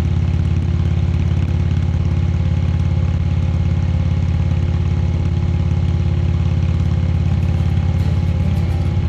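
Indian Chieftain Dark Horse's V-twin engine running at a steady, unchanging pitch, with a haze of wind and road noise over it.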